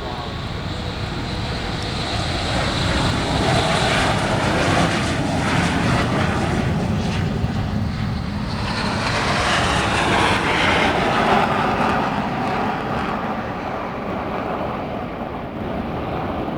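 Jet aircraft of the Fursan Al Emirat team taking off, Aermacchi MB-339 trainers with single turbojet engines. The engine roar swells twice, about four seconds in and again about ten seconds in, as the jets pass.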